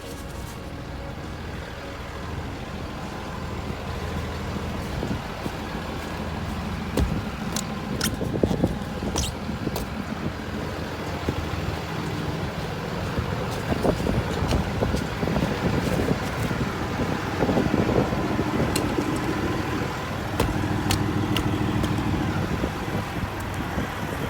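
Car driving, with steady road and engine rumble that builds slightly, and a few sharp clicks here and there.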